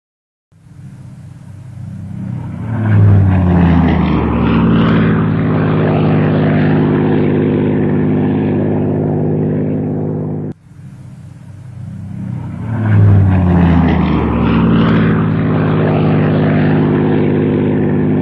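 Propeller aircraft piston engine starting up, its pitch climbing for a couple of seconds before it settles into a steady, loud run. The same start-up cuts off suddenly about ten and a half seconds in and is heard again.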